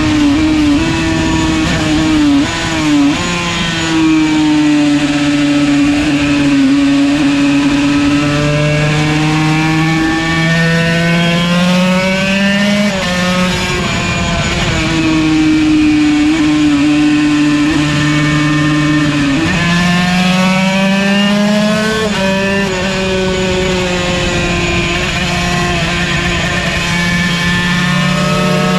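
Yamaha TZ125's 125cc two-stroke single-cylinder engine at racing speed, its pitch rising and falling under throttle, with sudden drops in pitch at gear changes, twice clearly partway through.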